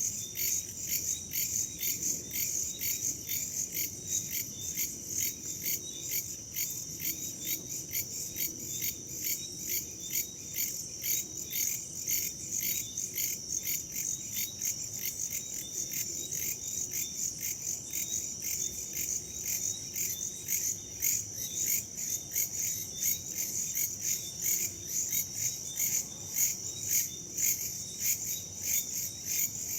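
A chorus of crickets and other insects chirping in a rapid, even pulsing that never lets up, over a soft low rush of wind.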